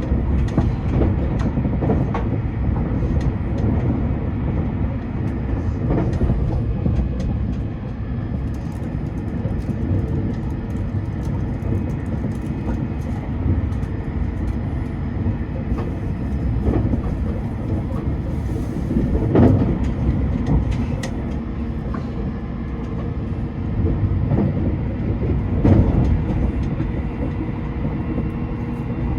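Passenger train running, a steady low rumble of wheels on rail with scattered knocks, two of them louder: one about two-thirds of the way through and one near the end.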